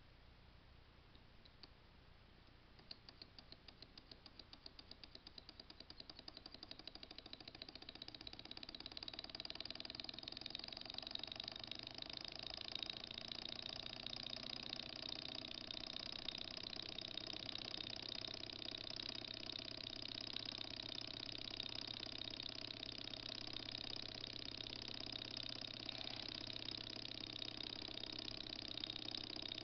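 Small model Stirling engine heated by a candle, spinning up: separate ticks from about three seconds in come faster and faster and merge into a steady, fast mechanical whir by about ten seconds in, running at around 1000 rpm.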